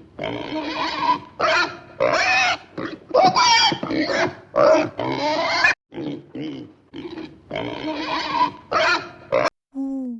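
Pigs squealing and grunting in a run of harsh, noisy bursts. It cuts abruptly near the end to a short, clear, low-pitched call.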